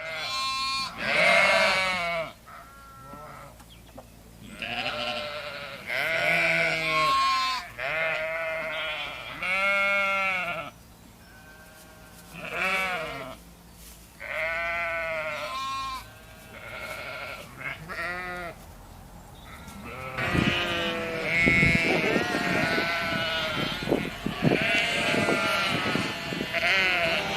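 Sheep bleating over and over, a long string of wavering calls about a second or two each, with several sheep bleating at once near the end.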